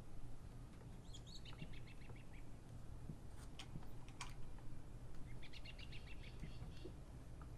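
A bird calling in two bursts of quick repeated chattering notes, one about a second in and another near the end, over a low steady hum, with a few faint clicks between the bursts.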